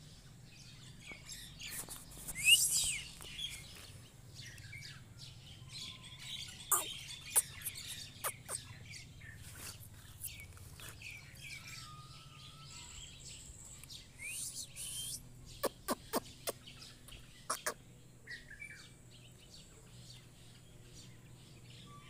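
Birds chirping and calling, with no steady rhythm. The loudest moment is a burst of rising calls about two and a half seconds in, and runs of short, sharp notes follow later.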